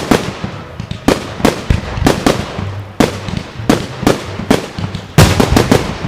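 Fireworks going off: a run of sharp bangs, about two a second, with a quick crackling cluster of reports about five seconds in.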